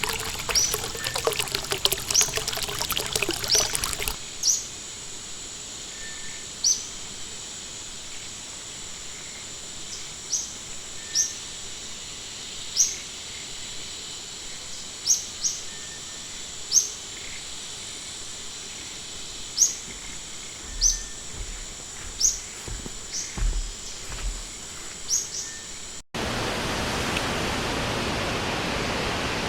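Stream water trickling and splashing for about four seconds, then a small bird giving short high chirps every second or two over a thin steady high tone. About 26 seconds in it cuts suddenly to a steady rush of flowing water.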